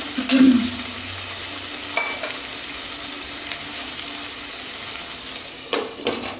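Paneer in a yogurt gravy sizzling steadily in a kadai over a gas flame. A wooden spatula knocks against the pan, once about half a second in and again about two seconds in. Near the end a glass lid clatters onto the pan, and the sizzle goes muffled.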